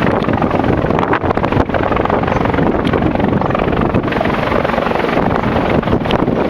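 Bell 412 twin-turbine helicopter running loud and close, its rotor and turbine noise steady, with wind buffeting the microphone.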